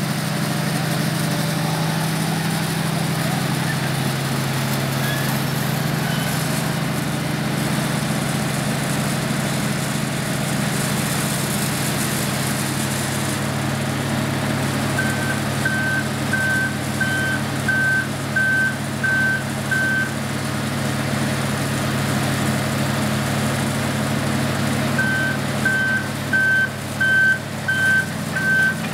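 Diesel engine of a Wirtgen W 1500 cold milling machine running steadily. Its reversing alarm beeps about twice a second in two runs, one about halfway through and one near the end, a sign that the machine is backing up.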